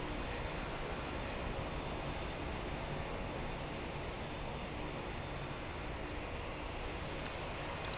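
Steady airport background noise: a low rumble and hiss with a faint steady hum, typical of jet aircraft engines heard at a distance.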